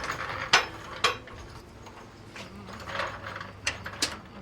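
Irregular mechanical clicking and clanking, a few sharp metallic knocks at uneven intervals, the strongest about half a second and a second in.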